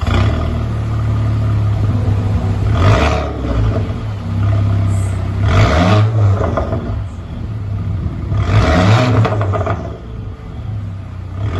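Audi A4 engine idling through an exhaust fitted by the shop, blipped three times with the throttle about three seconds apart, each rev rising and falling back to idle.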